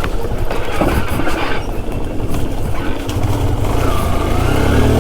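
Yamaha RX two-stroke motorcycle engine running under throttle on a dirt trail, revving up and getting louder in the second half.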